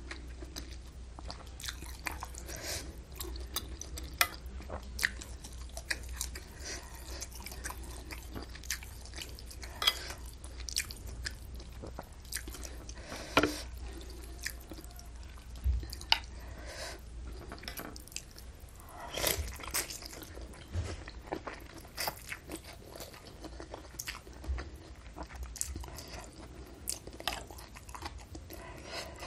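Close-miked wet chewing and mouth smacking while eating bakso with noodles and vermicelli, with many sharp clicks scattered irregularly through it.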